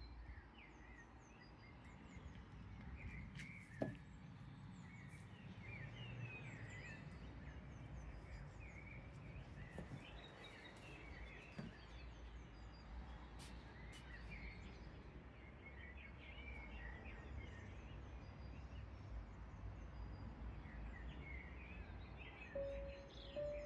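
Faint outdoor ambience: small birds chirping over and over above a steady low rumble of distant town background, with a single sharp click about four seconds in.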